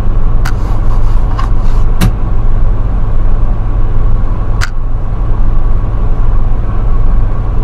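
Semi truck running: a loud, steady low rumble of engine and road noise, with three sharp clicks over it.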